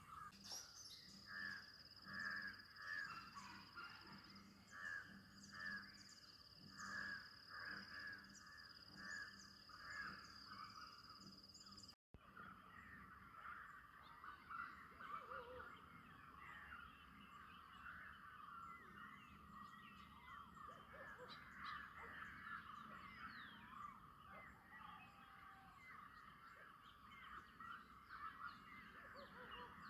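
Birds calling in the open: crows cawing in an even repeated series over a steady high tone. After a brief dropout about twelve seconds in, a dense chorus of short bird chirps takes over.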